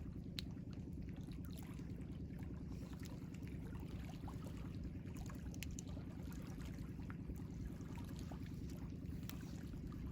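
Steady low rush of ocean water with small splashes and drips ticking throughout.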